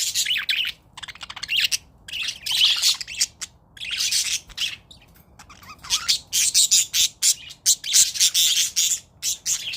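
Pet budgerigars chirping and chattering in rapid, high-pitched bursts, nearly continuous with short pauses.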